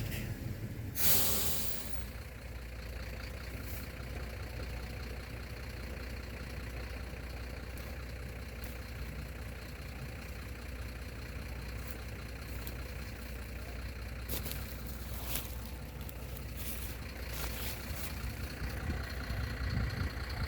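Heavy diesel engine idling with a steady low rumble, with a loud hiss of released air about a second in, like an air brake, and a few light clicks later on.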